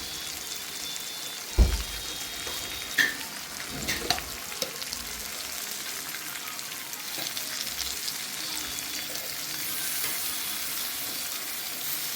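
Pork feet with onions frying and sizzling in a kadai, a steady hiss. Stirring knocks against the pan a few times, loudest about one and a half seconds in.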